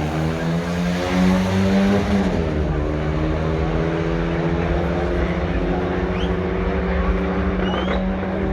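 Car engine running loud at fairly steady revs, with a short rise in revs about a second in and a drop just after two seconds, then holding an even note.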